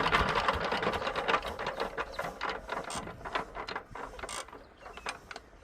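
Rapid mechanical clicking and clattering, loudest at the start and thinning out to scattered knocks.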